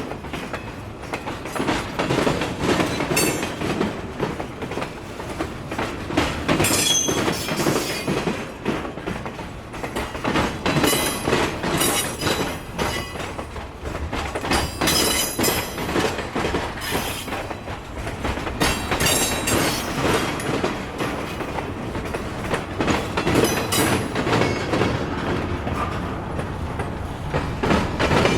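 Freight train rolling past, its wheels clicking irregularly over rail joints, with brief high-pitched wheel squeals now and then.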